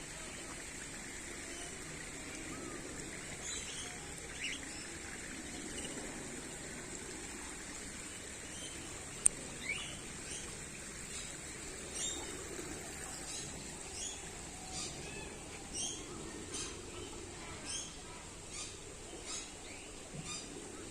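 Birds chirping, with scattered short high calls at first. From about halfway one call repeats regularly, a little more than once a second. A single sharp click comes about nine seconds in.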